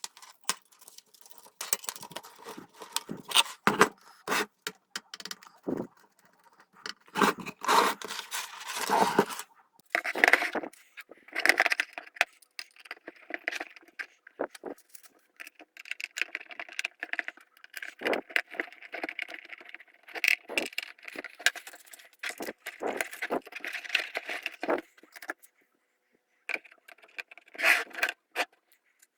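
Small hard parts being handled and fitted: irregular clicks, light knocks, scrapes and rattles of plastic and metal pieces.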